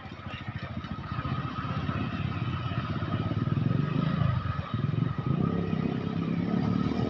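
A motor vehicle engine running close by and growing louder, with a brief dip in pitch and level about two-thirds through before it picks up again.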